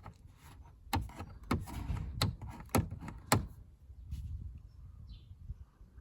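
Loose front protector cover on a Mitsubishi Delica rattling, with irregular hard knocks over a low rumble. The cover's clip does not reach its hole, so it is not held down and clatters in the wind pressure.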